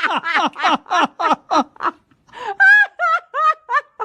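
A person laughing hard in rapid bursts, then a few high, wavering wails.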